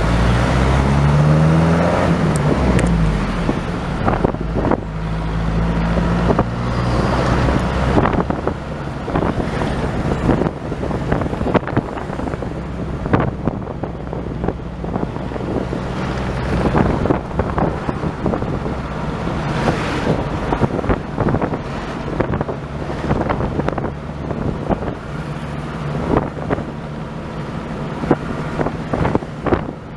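A motor vehicle's engine running on the road, its pitch rising and falling in the first few seconds, then a steady road noise with wind buffeting the microphone.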